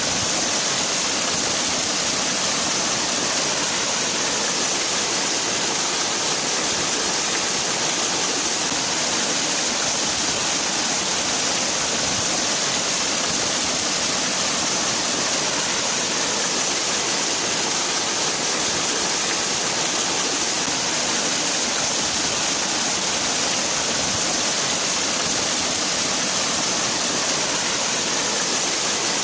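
Waterfall: water falling and splashing in a steady, unbroken hiss that is strongest in the high range.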